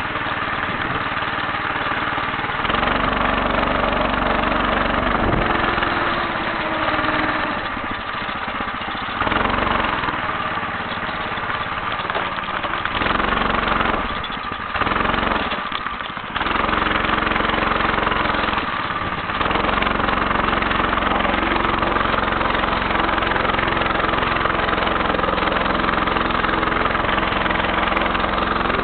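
Homemade motorcycle's small engine running under way, its note easing off and picking back up a few times around the middle.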